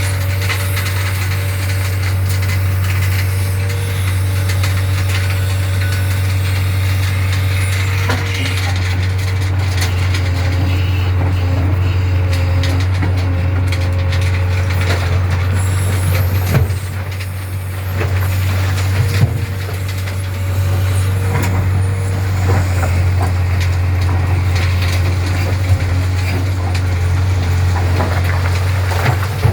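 JCB backhoe loader's diesel engine running steadily with a constant low drone, and a few sharp knocks in the second half.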